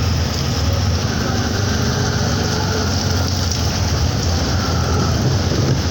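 Heavy rain pouring steadily, with a continuous low rumble underneath.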